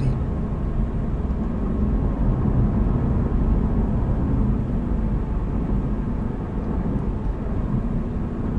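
Steady road noise heard inside a moving car: a low, even rumble of tyres and engine with no changes.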